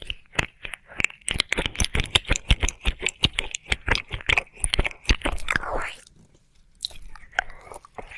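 Wet mouth sounds of ear licking: rapid wet clicks and smacks for about six seconds, a short pause, then a few more scattered clicks.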